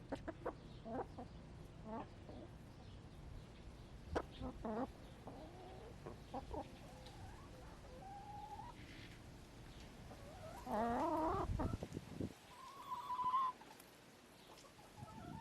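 Backyard hens clucking softly off and on, with a louder drawn-out call about two-thirds of the way through.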